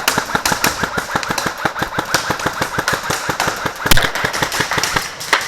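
Airsoft gun firing on full auto: a long, even stream of shots at about nine a second that stops just before the end, with one louder crack about four seconds in.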